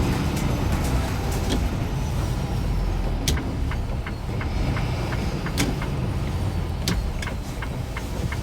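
A truck running on the road: a steady low rumble of engine and road noise, with scattered sharp clicks.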